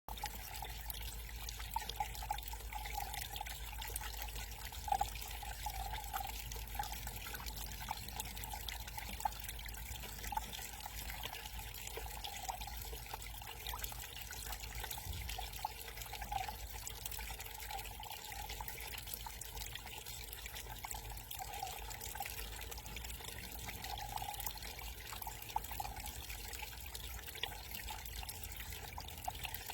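Small backyard garden waterfall trickling steadily, with scattered drips and splashes in the flow.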